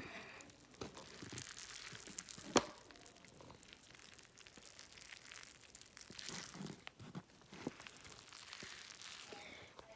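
Sauced rice being mixed on a plate: soft crinkling and squishing with scattered light clicks, and one sharper click about two and a half seconds in.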